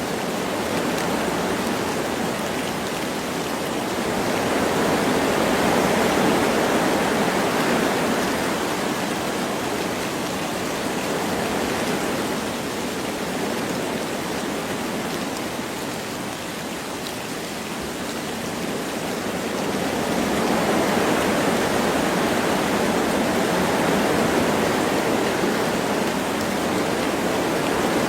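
Wind blowing through forest trees with a light rain, a steady rushing that swells in two slow gusts, one a few seconds in and another from about two-thirds of the way through.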